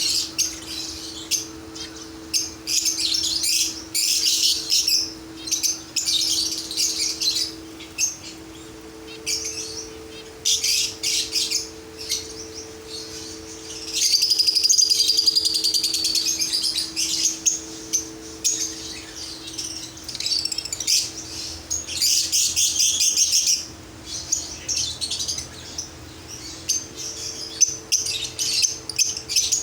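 Aviary of small cage birds chirping and twittering, many overlapping calls in quick runs with short lulls, busiest about halfway through. A steady low hum runs underneath.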